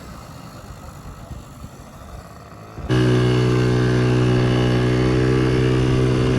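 1982 Honda Melody's 50cc two-stroke engine running, faint at first, then suddenly loud and steady at an even pitch from about three seconds in.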